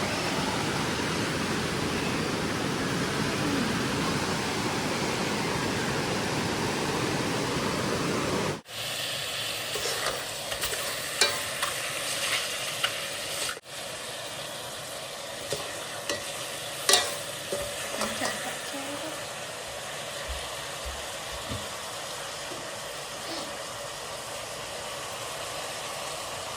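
Steady rush of waterfall water for about eight seconds, then, after a cut, a quieter hiss with scattered clicks and knocks.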